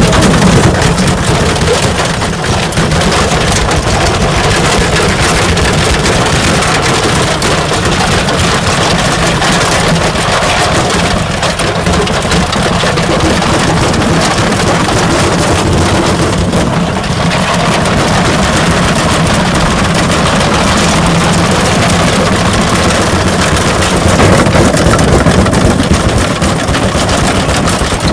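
Ariston Margherita washing machine spinning with a brick loose in its drum: a loud, continuous rapid rattling and banging over the hum of the drum's motor.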